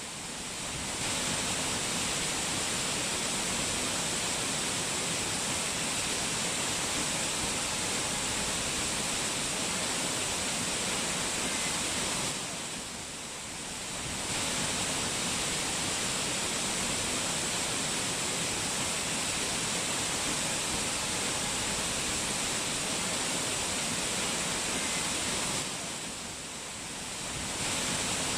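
Rushing water of a mountain waterfall, a steady, even rush that briefly softens twice, about halfway through and near the end.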